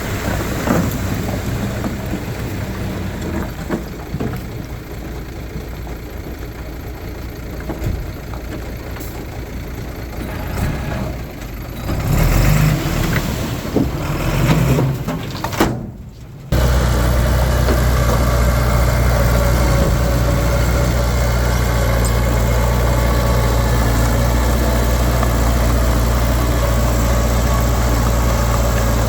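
Diesel engine of earthmoving machinery running. In the first half it rises and falls unevenly, with scattered knocks. About halfway through the sound cuts to a steady, even engine hum.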